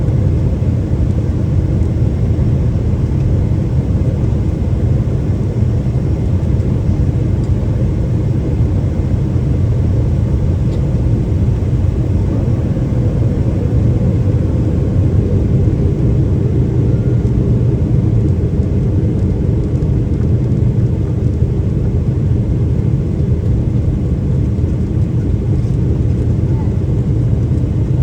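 Steady cabin noise of a Boeing 777-300ER in descent: a constant low rumble of airflow and its GE90 engines, heard from inside the passenger cabin.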